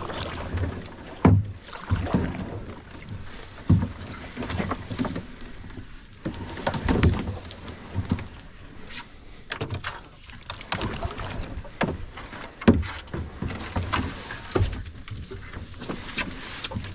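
Kayak being paddled: the paddle dipping and splashing in the water, with irregular sharp knocks throughout.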